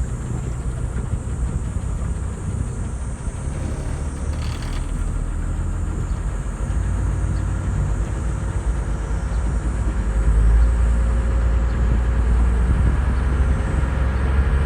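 Steady low rumble of a sightseeing boat's engine under way, with wind on the microphone, growing louder about ten seconds in.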